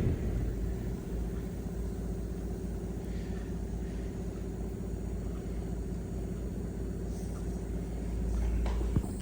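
A steady low mechanical hum with several even tones, swelling slightly near the end, cut by a sharp click shortly before the end.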